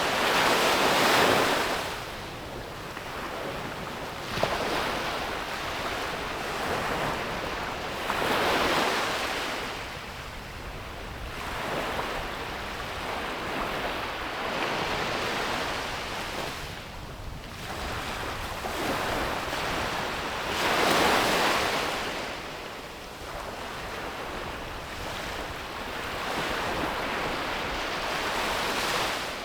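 Ocean waves breaking on a beach, each wave rushing in with a loud surge and washing back, about every six to eight seconds. The loudest surges come about a second in, near nine seconds and near twenty-one seconds, with steady surf hiss in between.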